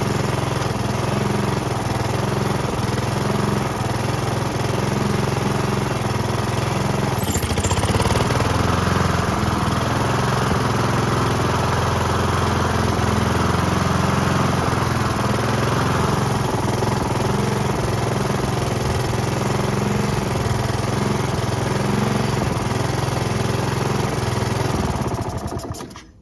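Honda HRX217 lawn mower engine running steadily after a carburettor cleaning. It gets a little louder about eight seconds in, then shuts off near the end. It runs, but still needs throttle adjustment.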